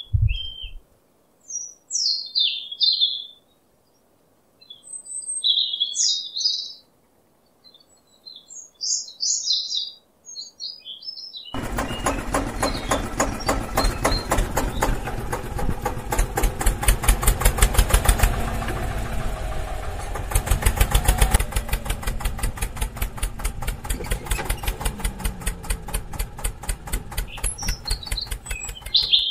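Birds chirping, then about twelve seconds in a toy tractor's small electric motor and gears start running loudly with a fast, even clatter.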